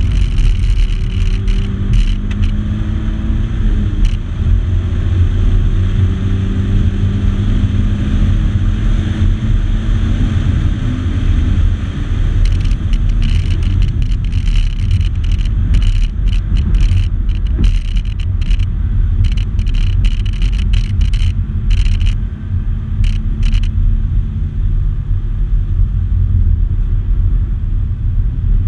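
In-cabin sound of a 2014 Subaru BRZ's 2.0-litre flat-four engine at speed on a race track: heavy road and wind rumble under an engine note that climbs slowly in pitch as the car pulls. Scattered light ticks come through the middle stretch.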